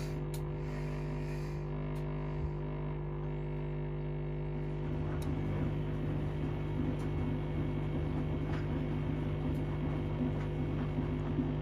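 Washing machine running a wash on its down programme with pillows in the drum: a steady motor hum, joined about five seconds in by rougher churning of water and laundry in the drum.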